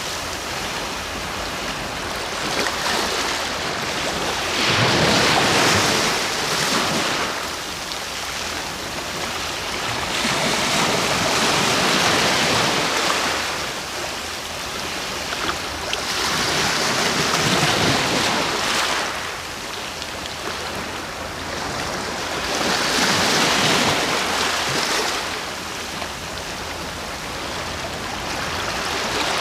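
Sea waves surging in and washing back, swelling about every six seconds, five times, with a steady hiss of surf between.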